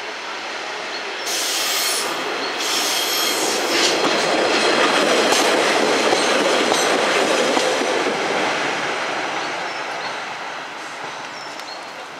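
A diesel multiple unit passing close by on curved track. Its wheels squeal twice, about a second and a half in and again around three seconds, then the rumble and clatter of the wheels on the rails build to a peak mid-way and fade as it goes by.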